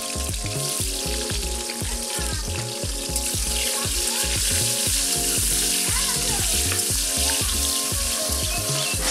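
Chunks of food sizzling as they fry in hot oil in a wok over a wood fire, with a steady hiss, under background music with a steady beat.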